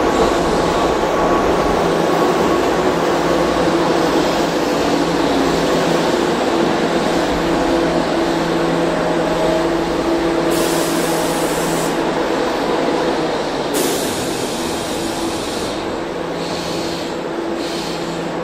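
Keihan electric train running at a station: a loud rail rumble with a steady motor hum. Two short bursts of hiss come past the middle, and the sound eases slowly toward the end.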